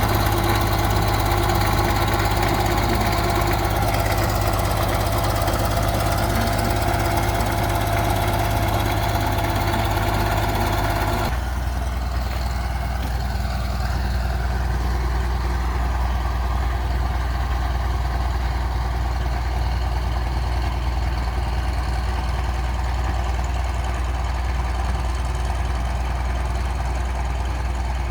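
Bulldozer's diesel engine running steadily; about eleven seconds in it drops abruptly to a lower, deeper note and runs on.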